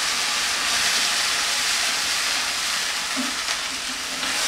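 Onions, green chillies and ginger-garlic paste sizzling in hot oil with a splash of water in a non-stick frying pan, stirred with a wooden spatula: a steady hiss.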